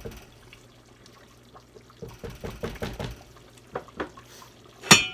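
A spoon stirring a pot of boiling chili, knocking softly against the pot several times about two seconds in. Near the end comes one loud metallic clank that rings on briefly.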